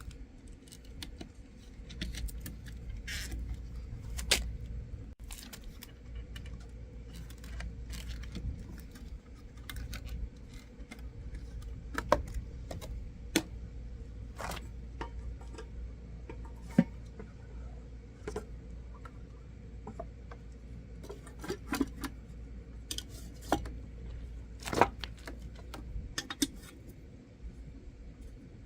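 Scattered sharp metallic clicks and clinks of tools and parts being handled, over a steady low rumble that drops away near the end.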